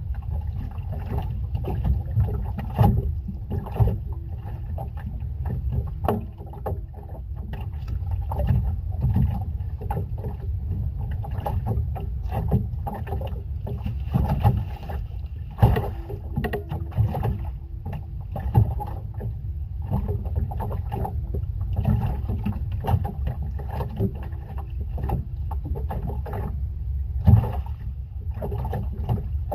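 Small fishing boat at sea: a steady low rumble with many irregular knocks and splashes, and a faint steady hum.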